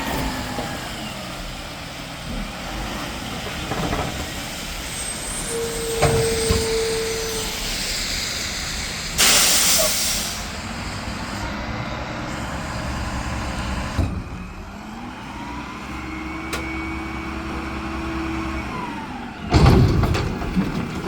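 Mack garbage truck with a McNeilus front-loader body running. An air-brake hiss comes about nine seconds in, a steady whine sounds twice, there are several sharp knocks, and a loud clatter comes near the end.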